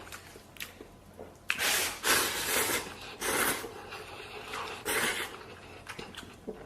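A person slurping noodles in several noisy, hissing pulls, the first about a second and a half in and the last around five seconds in.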